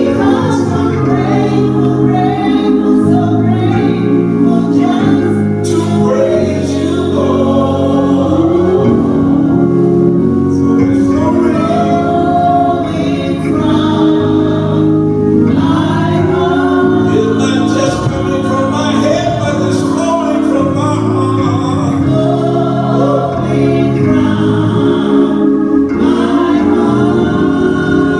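Gospel choir singing with organ accompaniment.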